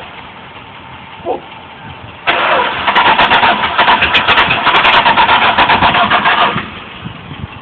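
Dodge truck engine starting on nitromethane sprayed in place of starting fluid: about two seconds in it suddenly fires into a loud run of rapid firing pulses, which drops back after about four seconds.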